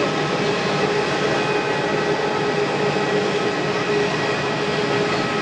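Boeing 787-8 jet airliner's engines running steadily: a broad, even rush with a steady multi-tone whine.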